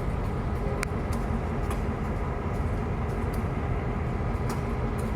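Train rolling past at a grade crossing: a steady low rumble of wheels on rail with scattered sharp clicks from the cars. No crossing bell sounds, because the crossing signals are not working.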